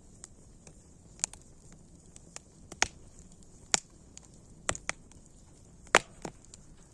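Wood fire crackling: irregular sharp pops and snaps over a faint low hiss, the loudest pop about six seconds in.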